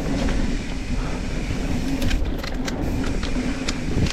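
Mountain bike riding down a dirt trail: steady tyre and wind rumble, with sharp rattles and clicks from the bike over bumps, thickest about two to three seconds in.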